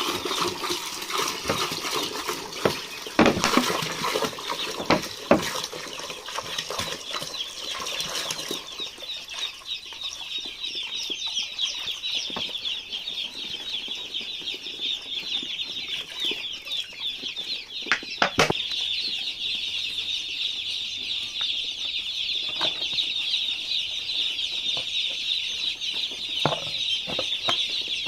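A crowd of day-old broiler chicks peeping continuously in a dense high-pitched chorus, which the farmer takes for chicks stressed by a long, hot journey in their cartons. There are a few sharp knocks, around 3 s, 5 s and 18 s, and some handling noise in the first few seconds.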